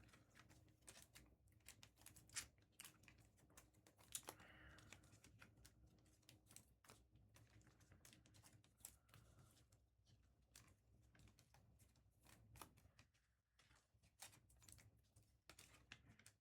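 Near silence: quiet room tone with faint, scattered light clicks and taps.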